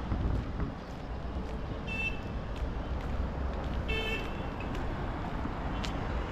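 Street traffic rumbling steadily, with two short vehicle horn toots about two seconds apart.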